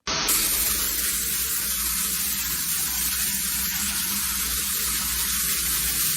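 Steady rushing hiss that starts abruptly and holds unbroken, with no pitch to it.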